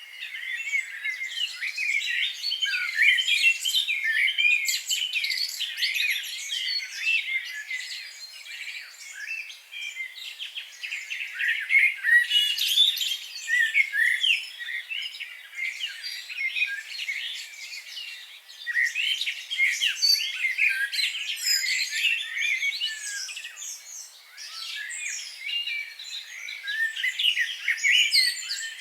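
A dense chorus of many small birds chirping and singing at once: a continuous tangle of quick high chirps and short trills that swells and eases every few seconds.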